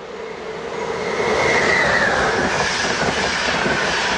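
A train passing close by at speed: the rush of wheels swells to a peak about a second and a half in, with rapid clatter over the rails and a high whine that falls in pitch as it goes by.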